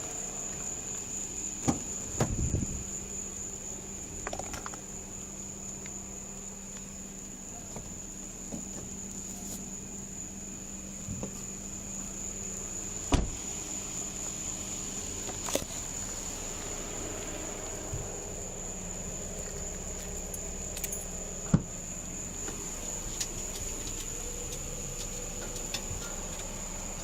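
Steady high-pitched insect trill, crickets, with a low hum beneath and a few sharp clicks and knocks, the loudest about 13 and 21 seconds in.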